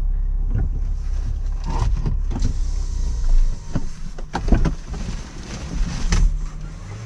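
A car engine running low, with a steady rumble that eases about three and a half seconds in and scattered sharp knocks and thumps.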